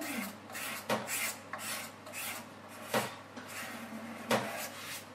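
Repeated rasping, scraping strokes about half a second apart on a hard surface, with three sharp knocks in between.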